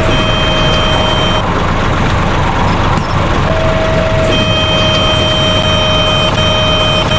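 Truck sound for a cement mixer truck: a loud, rumbling engine with steady high whining tones that drop out for a while in the middle and return. It starts and stops abruptly, like a recorded sound effect.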